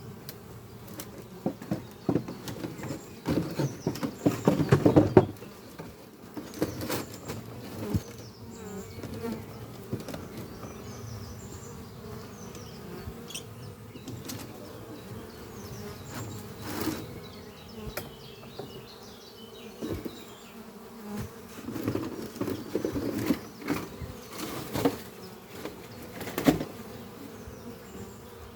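Honeybees buzzing in flight at a busy hive entrance: a steady hum of many bees, with louder buzzes as single bees fly close past, strongest about four to five seconds in and again several times near the end.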